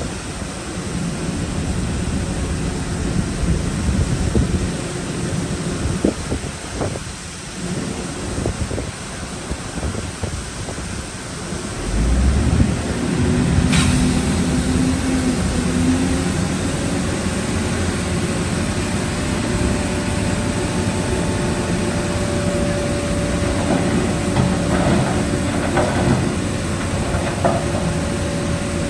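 Heavy diesel construction machinery working with a continuous low rumble. It gets louder about twelve seconds in, with a sharp click soon after, and a steady whine runs through the later part.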